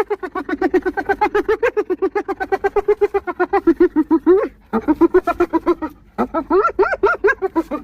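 Spotted hyena giggling: a rapid run of short, high-pitched notes, about eight a second, broken by two brief pauses about four and a half and six seconds in.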